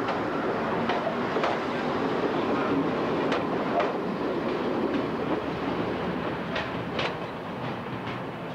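First-generation diesel multiple unit rolling slowly past at close range, its steady running noise broken by wheels clicking over rail joints in pairs a few seconds apart.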